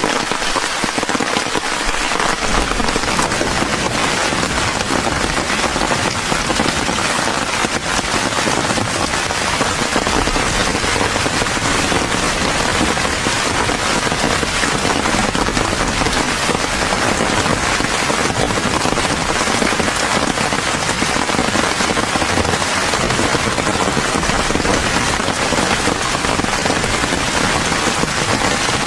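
Steady rain: a dense, even spread of drops striking a surface.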